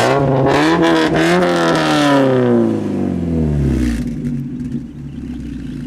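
Car engine with its muffler cut off, revved once: the pitch climbs for about a second and a half, falls back, and settles into a low, steady idle near the end, with a few exhaust pops during the rev.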